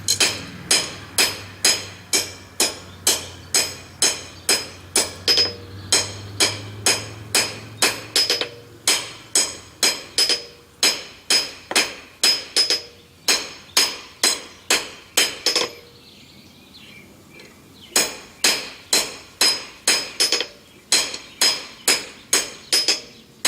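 Blacksmith's hammer striking hot steel on an anvil in a steady rhythm, about two and a half blows a second, each blow ringing; drawing down a tenon to size. The hammering stops for about two seconds two-thirds of the way through, then carries on.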